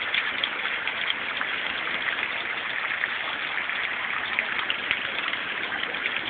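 Heavy rain and hail coming down: a steady rushing with many scattered sharp ticks of hailstones striking hard surfaces.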